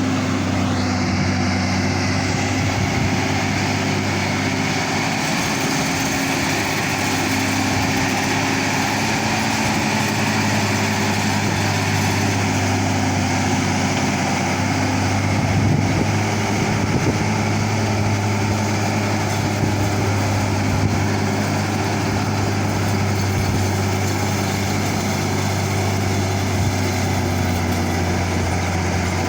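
Hino truck's diesel engine running steadily, a low, even drone.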